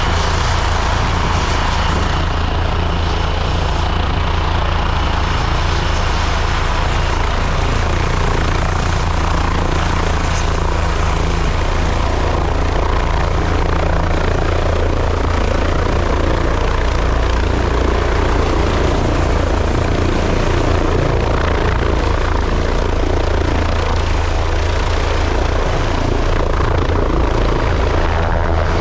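Leonardo AW169 air ambulance helicopter running loud and steady at take-off power for lift-off: a low rotor thump under the rush of its twin turbine engines, with a thin high turbine whine.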